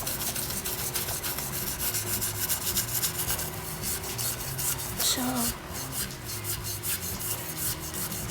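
A stiff brush scrubbing rust off the bars of a stainless-steel bird cage in rapid back-and-forth strokes, a dense scratchy rasping.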